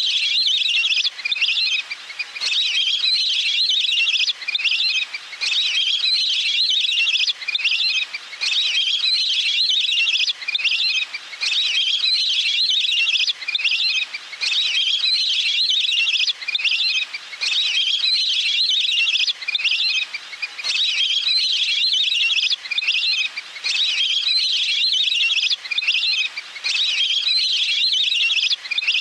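Recorded waterfowl call played as a decoy lure: rapid high chirping whistles in phrases about a second and a half long, repeating evenly with short gaps, like a looped recording.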